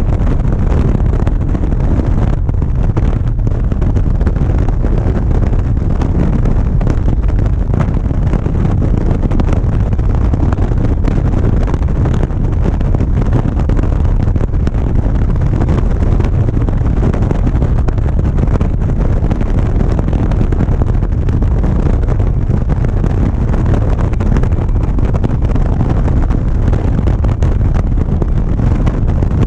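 Steady wind rushing over an action camera's microphone on a motorcycle at cruising speed, with the bike's engine and road noise beneath it.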